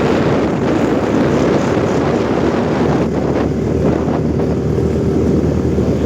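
A vehicle running steadily on the move, with wind buffeting the microphone: a continuous low rumble with no breaks.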